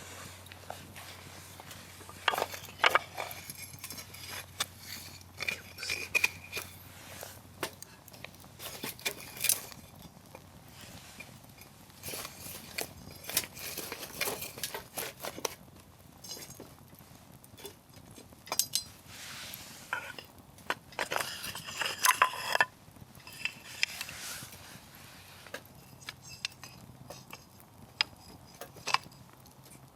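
Wood fire crackling, with irregular sharp pops and snaps from the burning firewood, several loud ones in quick clusters.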